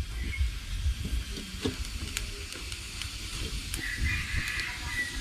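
Small wood fire just lit, hissing steadily with scattered crackles and pops.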